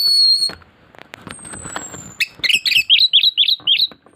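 An anis thrush singing. It holds a clear high whistle, then gives a long falling whistle, then a quick run of about eight sweeping notes, some five a second, over the last two seconds, with scattered clicks.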